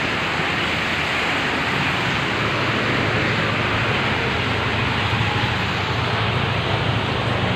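Heavy rain falling steadily. From about two seconds in, the low hum of a motor vehicle's engine comes up beneath it.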